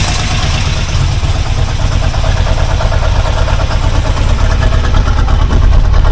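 C4 Corvette's 350 small-block V8 running steadily with no rod knock, at about 45 pounds of oil pressure. It is running really rich.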